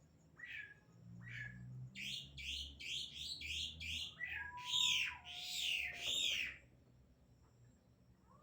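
Cucak cungkok (green leafbird) calling: two short notes, then a quick run of sharp, repeated chirps lasting about four seconds, with a lower whistled note that drops in pitch partway through.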